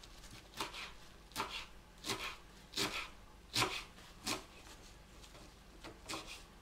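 Kitchen knife cutting fresh ground elder leaves on a wooden cutting board: slow, even cuts about every three-quarters of a second, with a short pause near the end.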